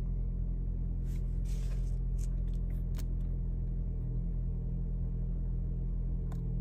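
Nissan Rogue's four-cylinder engine idling steadily in Park, heard from inside the cabin, with a few faint clicks.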